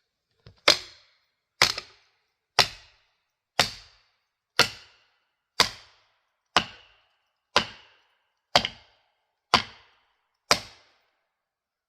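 Felling wedges being driven into a tree's saw cut: eleven sharp, evenly paced blows about one a second, each with a short ring-off, stopping about a second before the end.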